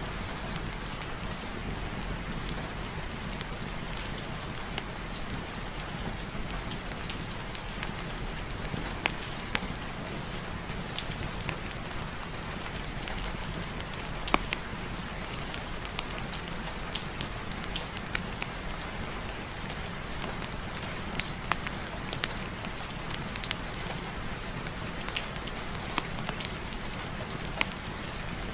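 Steady rain, with frequent sharp pops and crackles of a wood fire in a fireplace scattered irregularly through it.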